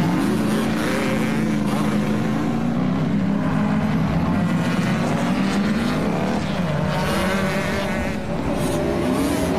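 Engine-like droning that keeps rising and falling in pitch, a cartoon motor sound effect.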